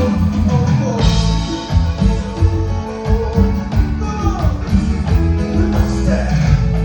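Live band music with singing over a strong, pulsing bass beat.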